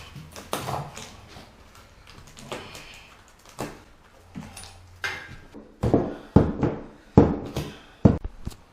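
Damaged wooden subfloor being pried up and broken out, giving irregular knocks and cracks of wood. The knocks come in a quick cluster in the second half.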